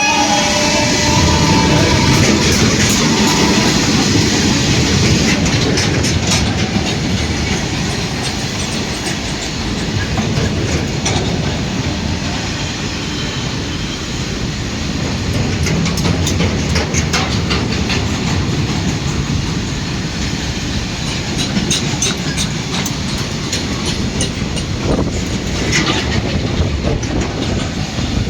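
A train running past at speed: a steady rolling rumble with the rhythmic clickety-clack of wheels striking rail joints.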